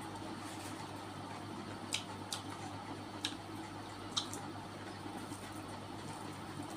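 A person eating, with four short wet mouth clicks over a steady low room hum.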